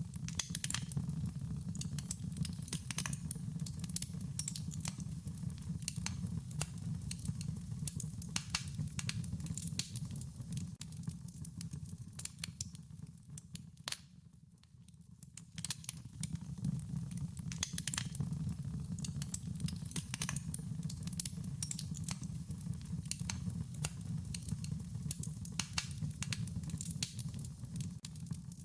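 Wood fire crackling, with frequent sharp pops and snaps over a low steady rumble. It fades briefly about halfway through, then picks up again.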